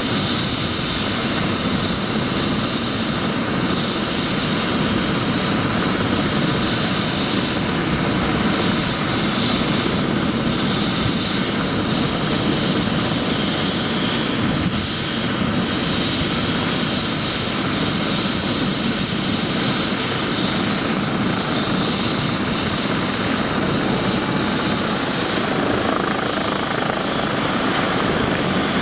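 Bell 407 helicopter running steadily, its single Rolls-Royce 250 turboshaft and four-blade main rotor giving a loud, even rush with a thin high turbine whine over it.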